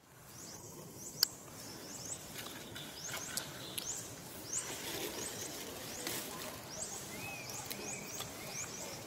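Wild birds giving repeated short, high chirps over a steady outdoor background hiss, with a single sharp click about a second in.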